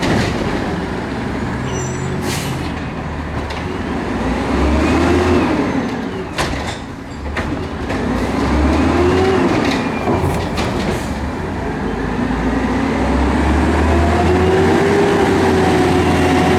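Garbage truck engine revving up and falling back several times, with a few sharp knocks and clanks.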